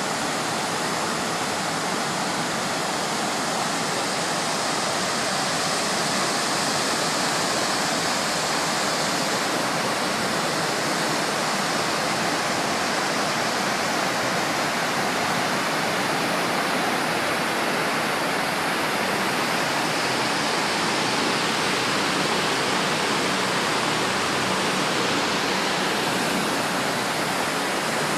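Water pouring steadily down the walls of the 9/11 Memorial reflecting pools, an even, unbroken rush of falling water.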